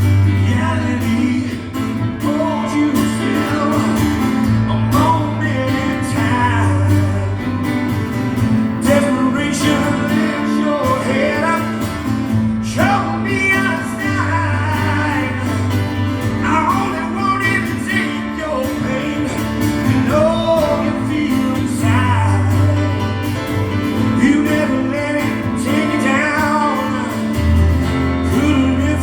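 Live acoustic song: acoustic guitar playing under a singer's voice, with sustained low notes throughout.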